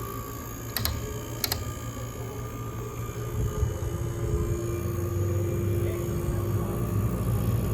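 A refrigeration compressor running with a steady low hum that grows louder about three and a half seconds in. Two sharp clicks come about a second in, under a second apart.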